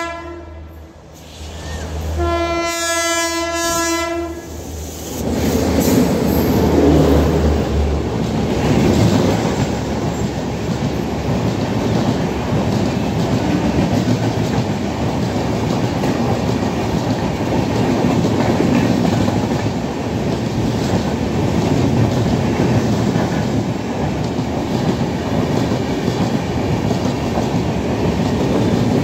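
An Indian Railways electric locomotive's horn ends just as the clip starts and sounds again for about two seconds a couple of seconds in. Then the express passes at speed: a loud, steady rush of wheels clattering on the rails as a long rake of red LHB coaches goes by.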